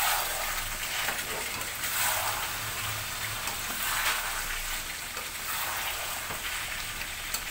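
Chicken pieces frying in oil with spice paste and yogurt, a steady sizzle that swells every couple of seconds as the pan is stirred.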